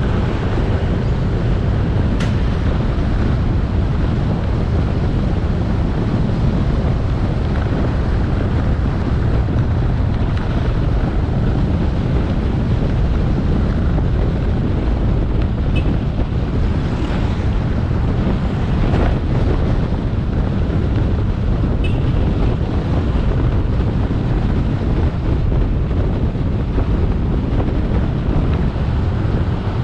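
Wind rushing over the action camera's microphone on a moving motorbike, with the bike's engine and road noise underneath, steady throughout. A few faint ticks come through here and there.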